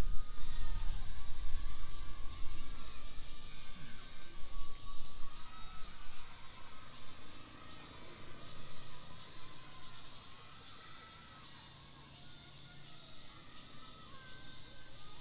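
Outdoor park ambience: a steady high-pitched insect drone with faint wavering calls above a low background, and a low rumble in the first few seconds that fades away.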